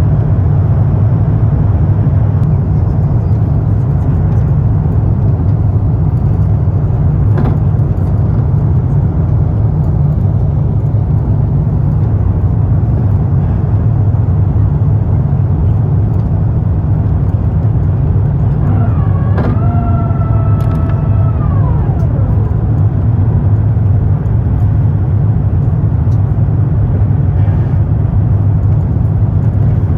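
Airbus A350-900 cabin noise: a loud, steady low rumble of the engines and airflow. About two-thirds of the way through, a brief pitched tone glides up, holds for a couple of seconds, then falls away.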